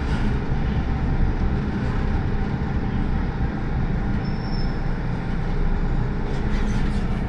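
MTR M-Train electric multiple unit running along the track: a steady, loud rumble with a faint steady whine on top.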